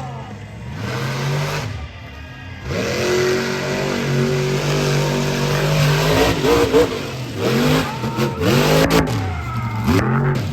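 Monster truck engine revving hard several times: a short rev, a dip, then a long high hold, followed by quick rises and falls in pitch near the end.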